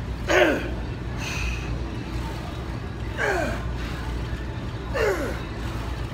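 A lifter's strained vocal exhalations during a set of leg exercise reps: a short cry that falls in pitch, about every two seconds, three times, once per rep. A steady low hum runs underneath.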